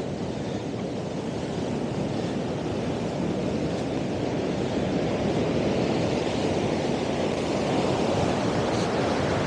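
Ocean surf breaking on a beach in strong wind, with wind buffeting the microphone: a steady rushing that grows slowly louder.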